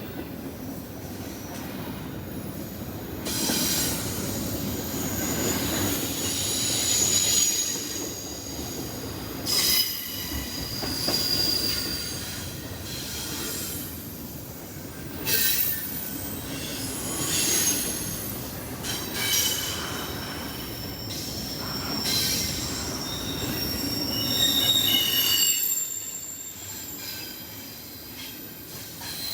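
Freight train cars rolling past with their wheels squealing on the rails, thin high-pitched squeals coming and going over a steady rumble that swells every couple of seconds.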